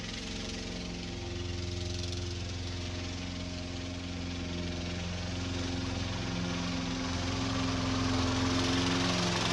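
An engine running steadily, growing slowly louder, with its pitch shifting a little partway through.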